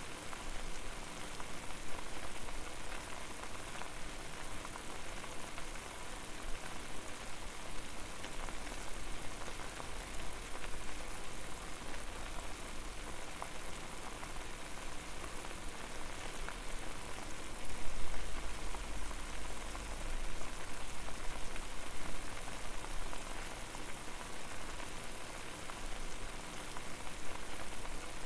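Water boiling hard over a flame: a dense, steady bubbling crackle, with a deeper low rumble swelling up twice, most strongly a little past the middle.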